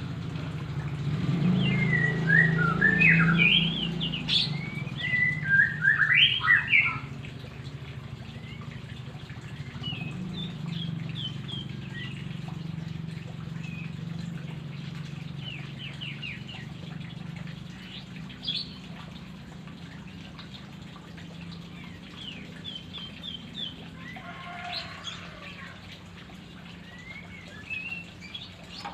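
White-rumped shama (murai batu) singing: a loud run of quick, varied whistled phrases for the first several seconds, then quieter scattered chirps and short trills, over a steady low hum.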